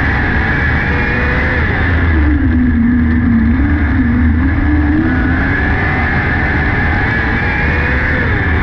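600cc micro sprint car's motorcycle engine at racing speed, its pitch dropping as the throttle comes off for a corner and climbing back as it drives off, twice in a lap-like cycle.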